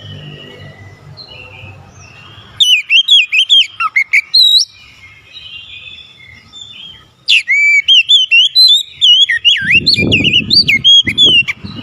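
Oriental magpie-robin singing in full song: loud, rapid phrases of whistles, sweeps and warbles in two long bursts, the second starting about seven seconds in. A low rumble runs underneath near the end.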